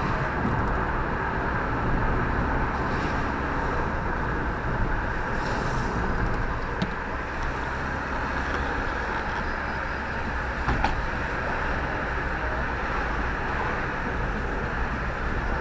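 Steady engine and road rumble of a moving road vehicle, with a couple of faint clicks.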